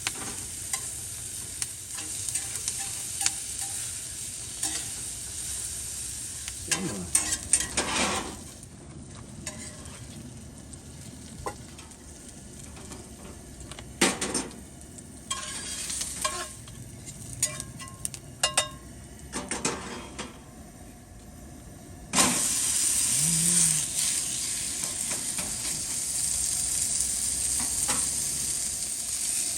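Ribeye steak frying in butter in a cast iron skillet, a steady sizzle with scattered clicks and knocks. About two thirds of the way through the sizzle suddenly grows much louder and stays that way.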